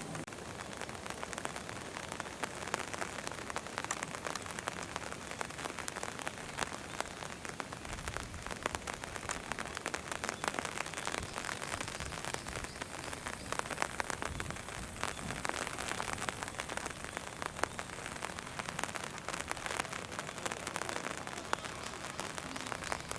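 Steady rain falling, with many close, sharp drop hits.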